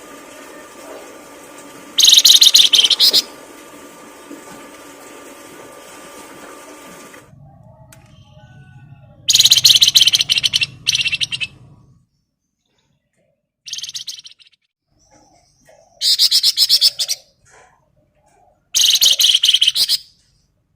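A songbird singing in loud bursts of rapid, chattering trills, about six phrases of half a second to a second and a half each, separated by short pauses.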